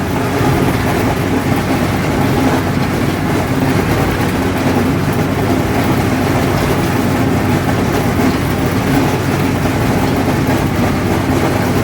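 Allis-Chalmers 7000 tractor's diesel engine running steadily under load while pulling a New Holland 1209 haybine that is mowing hay. It is a loud, even drone with no change in pitch.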